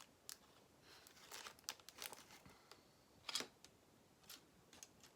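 Faint rustling and light clicking of small plastic Lego pieces being handled and sorted, with one louder click about three seconds in.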